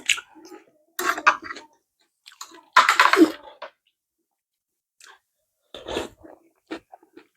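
Close-miked chewing of a meal of spicy noodles with boiled egg, cucumber and onion, heard as several short noisy bursts separated by pauses.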